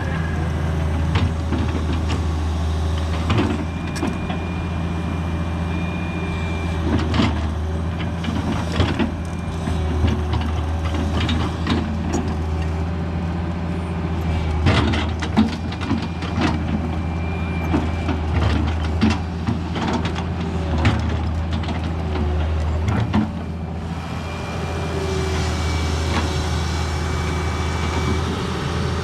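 Excavator's diesel engine running steadily, with frequent knocks and clanks throughout and a faint high whine that comes and goes.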